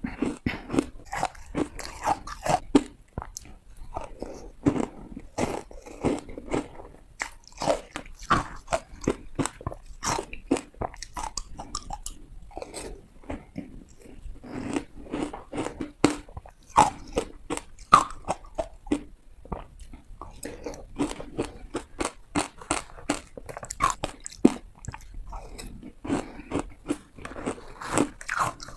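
Close-miked crunching bites into hard ice: repeated sharp cracks in irregular clusters of bites and crunches, with brief gaps between them.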